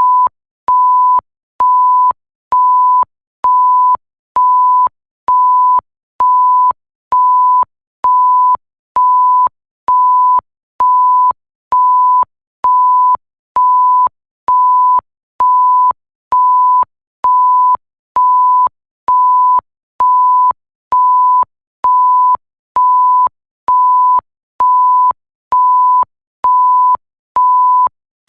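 Synthetic 1 kHz sine-tone bleep switching on and off at an even pace, a little more than one beep a second, each beep about half a second long at one steady pitch, with a faint click as each starts and stops.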